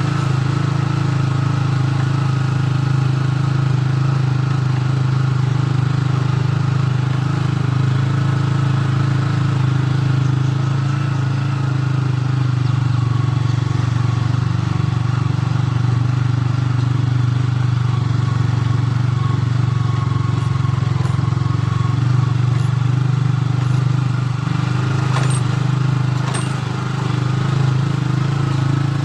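An engine running steadily at an even speed, with a low hum that holds its pitch throughout. A couple of short clicks come near the end.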